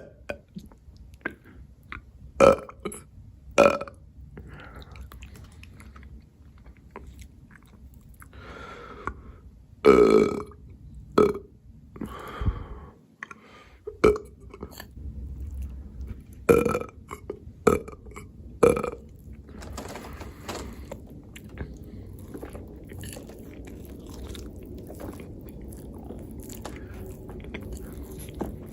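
Close-miked mouth sounds of a person eating: chewing with sharp wet clicks and smacks every second or so, and a loud burp about ten seconds in.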